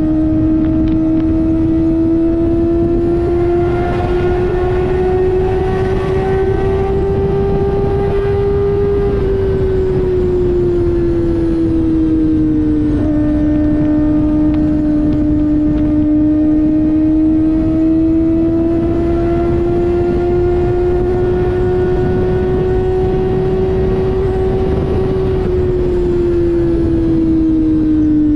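Kawasaki ZX-4RR inline-four through an SC-Project slip-on exhaust, cruising on the road with a steady engine note. The pitch rises slowly, sinks as the throttle eases about nine seconds in, rises slowly again and drops once more near the end, over a constant rush of wind and road noise.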